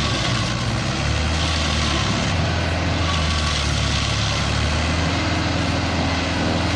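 Yellow Carlton stump grinder's engine running steadily at full power, with a constant noisy haze over the engine note.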